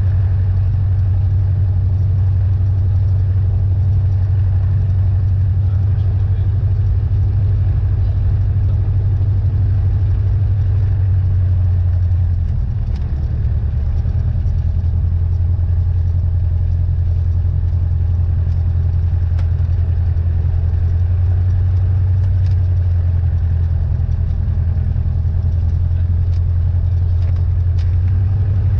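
Cessna 172N's Lycoming O-320 four-cylinder engine and propeller running steadily, with a brief drop in pitch and level about halfway through.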